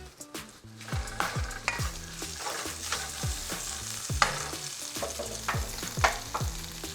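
Cornstarch-coated chicken cubes sizzling in hot oil in a pan, stirred so the utensil scrapes and knocks against the pan.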